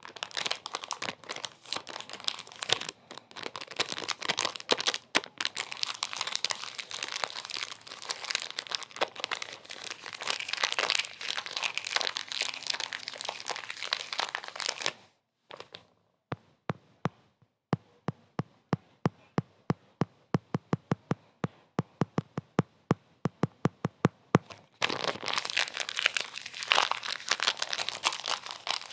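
Dense crinkling and crackling. About 15 s in it breaks off into a run of separate sharp clicks, about four or five a second, and the dense crinkling returns about 25 s in.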